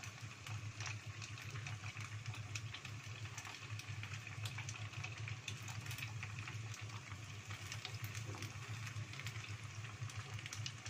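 Sempol tahu (skewered tofu-and-flour balls) deep-frying in a small pot of hot oil: a steady sizzle full of small pops and crackles, over a low steady hum.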